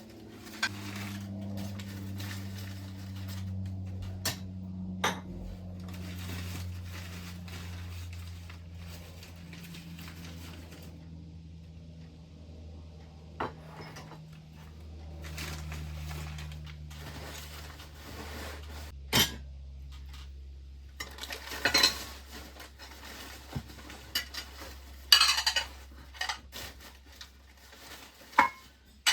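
Dishes and metal items clinking and clattering as they are handled, with sharp knocks now and then and louder clatter in the last third. A steady low hum runs underneath.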